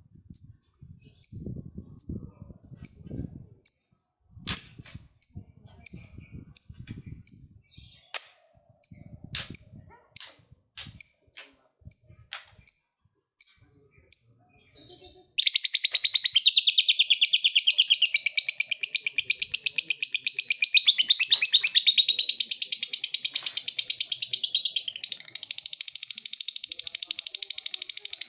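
Lovebird giving short, sharp, high chirps about one and a half a second. About halfway through it breaks suddenly into a long unbroken rapid chatter, the lovebird's 'ngekek panjang' trill.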